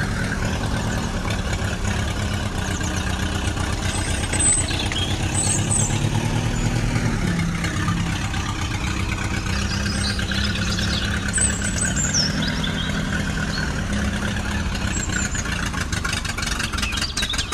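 Engine running steadily at idle with a fast, even pulse; its pitch shifts briefly about six to seven seconds in. Short bird chirps sound over it.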